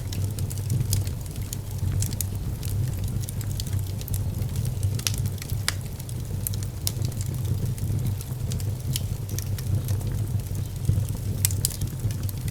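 Wood fire burning in a fireplace: frequent, irregular sharp crackles and pops of burning wood over a steady low rumble.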